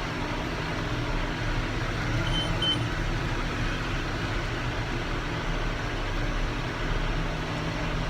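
Tractor engine running steadily while pulling a round baler through alfalfa windrows, heard from inside the cab. Two short high beeps sound about two and a half seconds in.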